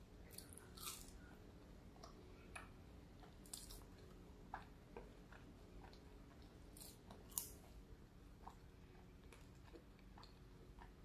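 Faint chewing of French fries: soft mouth clicks and wet smacks at irregular moments, the sharpest about seven seconds in.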